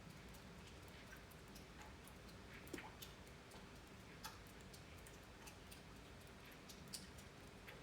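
Faint, irregular ticks and taps of scattered raindrops falling during a thunderstorm, several a second at uneven spacing, over a low background hush.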